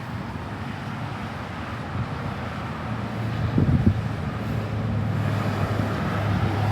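A motor vehicle's engine running, with a low rumble that swells briefly a little past halfway and then settles into a steady hum.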